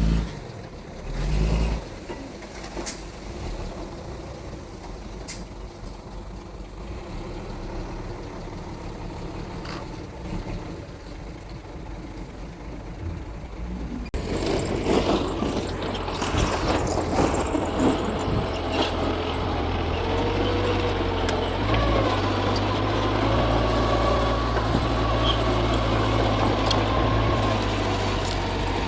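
Mitsubishi bulldozer's diesel engine running, with scattered metallic clanks. About halfway through it suddenly gets louder, and its pitch steps up under load as it works, with more clanking.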